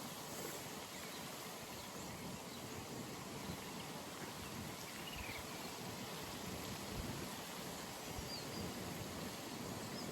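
Steady outdoor pond ambience: an even background hiss with a few faint, brief bird chirps.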